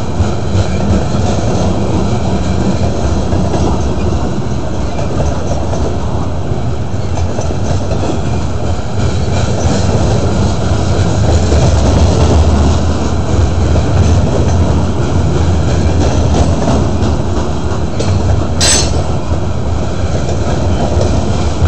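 Loaded covered hopper cars of a freight train rolling past close by, a steady loud rumble and clatter of steel wheels on the rails. One short high-pitched wheel squeal cuts through about three-quarters of the way in.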